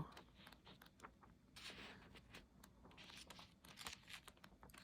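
Near silence, broken by faint scattered ticks and soft rustles of book pages being leafed through.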